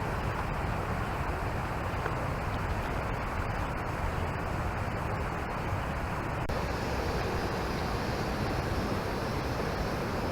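Steady rushing noise with no distinct calls, like wind on the microphone, a little brighter from about six seconds in.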